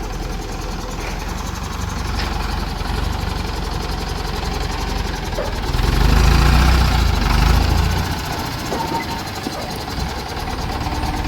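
Heavy diesel engine running steadily, swelling louder and deeper for about two seconds past the middle before settling back.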